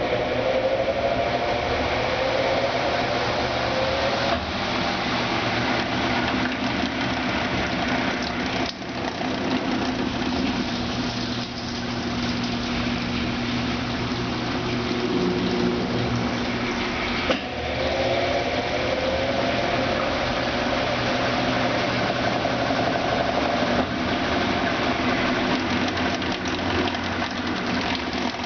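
Brastemp Ative BWL11AR top-loading washing machine running through the end of its wash and intermediate spin: a steady motor hum, with a whine that rises in pitch over the first few seconds. A click comes about two-thirds of the way through, and the rising whine starts again right after it.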